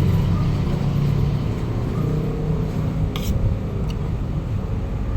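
A motor vehicle engine running, a low steady drone, with a short click about three seconds in.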